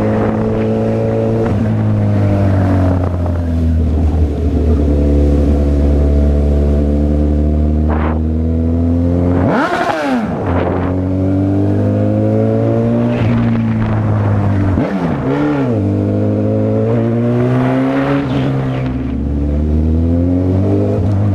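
Honda CB1000R's inline-four engine running while riding, at mostly steady revs. There are brief swoops in engine pitch about ten seconds in and again around fifteen seconds.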